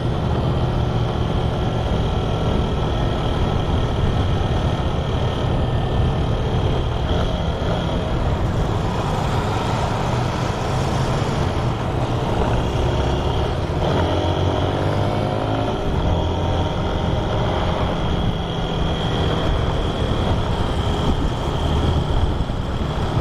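Motorcycle engine running steadily while riding in a group of motorcycles, with road and wind noise. About fourteen seconds in, a second engine's note sweeps in pitch for a couple of seconds.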